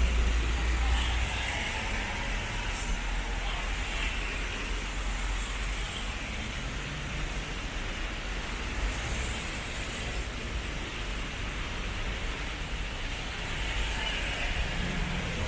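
Road traffic going by: a steady hiss of tyres over a low engine rumble, the rumble swelling near the start and again near the end as vehicles pass closer.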